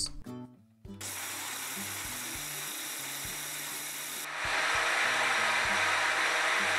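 Countertop blender motor running, grinding onion, ginger, garlic and soaked mustard seeds with a little water into a spice paste. It starts about a second in as a steady whirring noise and gets louder about four seconds in.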